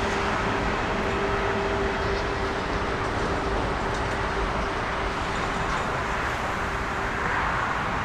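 Jet airliner engines running: a steady rushing noise with a held hum that fades away about six seconds in.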